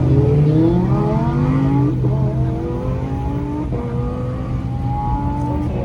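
High-performance car engine accelerating hard, its pitch rising and then dropping at two upshifts, about two seconds in and again near four seconds in, as the car pulls away.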